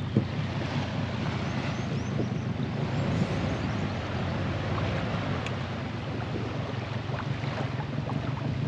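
A boat under way: a steady low engine hum under rushing water and wind buffeting the microphone.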